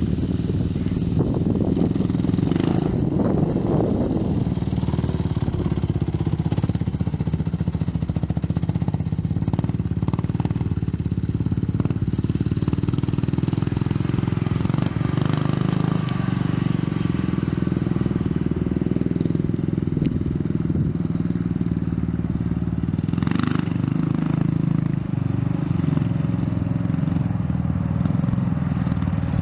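Quad (ATV) engine running steadily close by, its low drone continuous throughout, with a brief noise burst about two-thirds of the way through.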